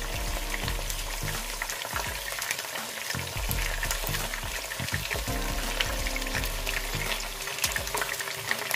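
Chicken wings frying in shallow oil in a nonstick pan, sizzling and crackling steadily, while metal tongs turn the pieces as they brown.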